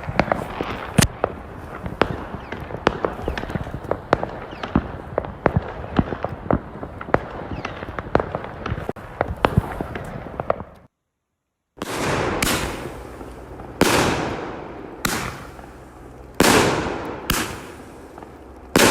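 Fireworks going off: a dense crackle of many small bangs over a steady rumble, then, after a brief break, louder separate firework bangs about a second apart, each trailing off as it echoes.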